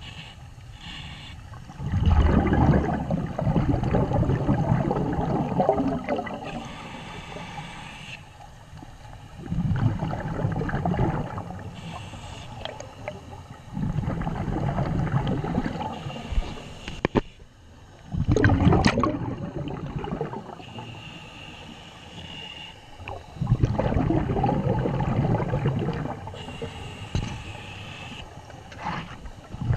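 Scuba regulator exhalation heard underwater: loud bubbling bursts a few seconds long, coming every four to five seconds, with quieter stretches between the breaths.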